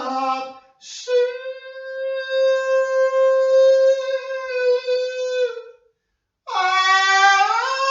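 Solo unaccompanied singing of a Hebrew chant: a short sung word, then one long steady held note of about four and a half seconds that sags slightly at its end. After a brief break, singing resumes with sliding pitch.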